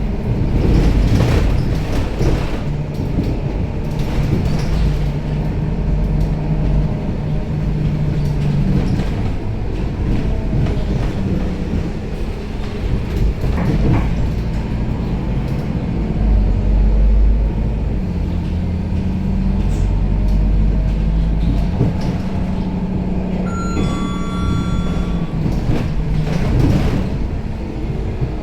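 Scania K270UB city bus heard from inside while driving: steady engine and drivetrain hum that shifts in pitch and level as the bus changes speed, with body and seat rattles. Near the end, a short electronic chime sounds.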